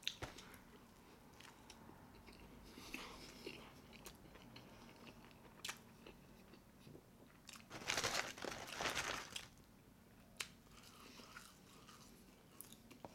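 Close-miked mouth sounds of a person chewing a mouthful of Big Mac, with faint wet clicks and smacks. The loudest stretch of chewing noise comes about eight to nine and a half seconds in.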